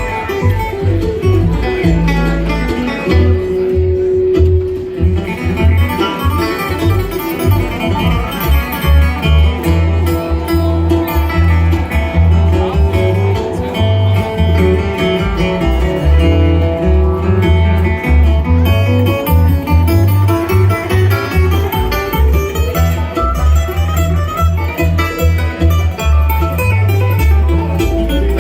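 Bluegrass band playing an instrumental passage: picked acoustic guitar and banjo over a steady, moving bass line.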